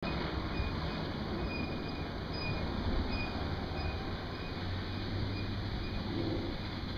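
A vehicle running with a steady low rumble, with faint short high tones recurring over it.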